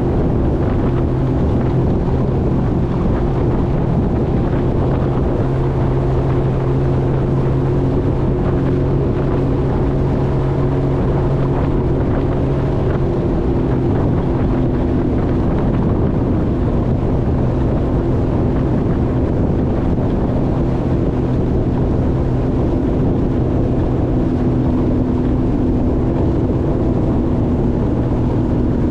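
Jet ski engine running steadily under way, with wind buffeting the microphone.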